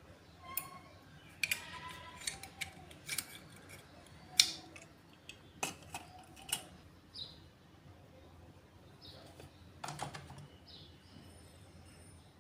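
Irregular sharp clicks and light taps of small hard objects being handled, about a dozen spread unevenly, the loudest a little past four seconds in. Faint short chirps in the background in the second half.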